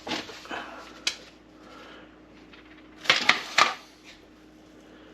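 A few sharp clicks and clatters of plastic parts and tools being handled: one near the start, one about a second in, and a quick run of three about three seconds in.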